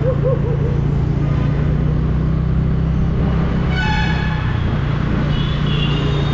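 Scooter engine running steadily in street traffic, with a vehicle horn honking once, briefly, about four seconds in. Fainter high-pitched tones, likely another horn, follow near the end.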